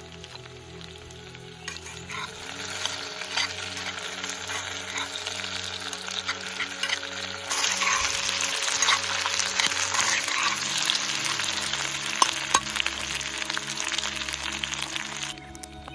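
Food sizzling and frying in a hot pan over a fire, with a dense hiss and scattered pops. It starts about two seconds in, gets louder halfway through and cuts off abruptly near the end.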